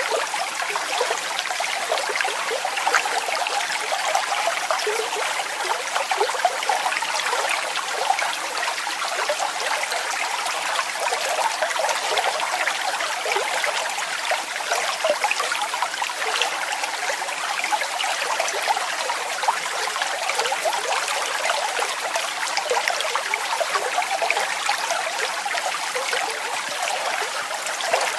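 Water cascading and splashing steadily: a continuous rush of many small splashes, bright and hissy, with little deep rumble.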